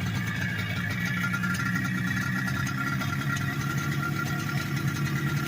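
1973 Yamaha RD350's air-cooled two-stroke parallel twin idling steadily, freshly restored and running again after 43 years.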